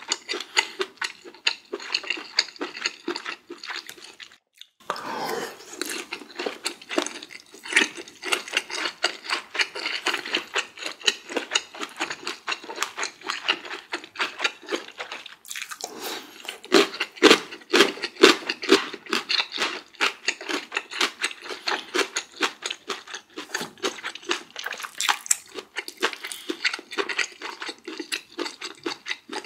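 Close-miked eating sounds: a dense run of small wet clicks and crunches of food being chewed, broken twice by brief drop-outs.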